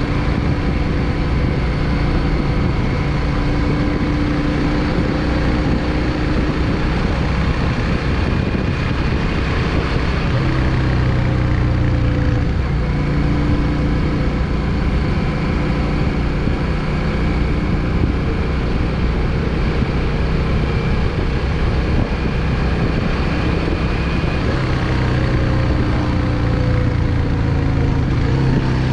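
Yamaha XVS 650 Drag Star's air-cooled V-twin engine running steadily while the motorcycle rides along, its pitch shifting slightly with throttle a couple of times.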